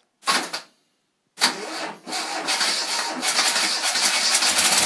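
Freshly rebuilt Fiat 126 650cc air-cooled two-cylinder engine on its first start: a short burst of cranking, a pause, then it catches about a second and a half in and keeps running, growing steadier. A rattle comes from the Workmate bench the engine is bolted to.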